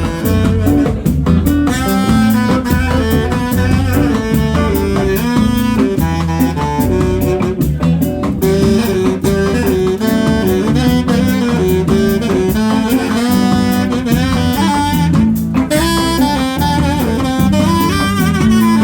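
Live band music: a saxophone melody over drums and bass.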